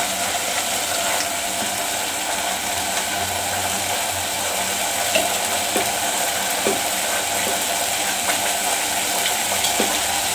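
Thick masala paste sizzling and bubbling in oil in an aluminium pot, a steady hiss with scattered small pops. The masala is cooked through, ready for the chicken.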